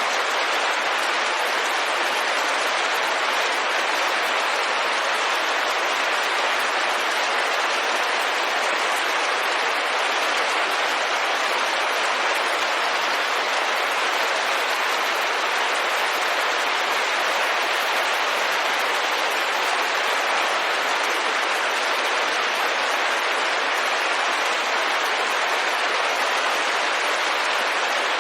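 Rain falling steadily on a window, a dense, even hiss of drops with no breaks or changes in level.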